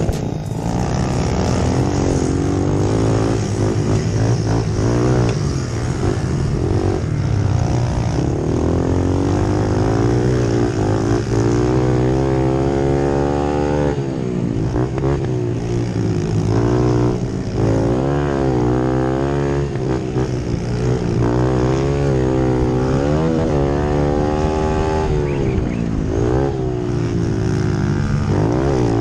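Motor vehicle engine running steadily, its pitch repeatedly rising and falling over a constant low drone.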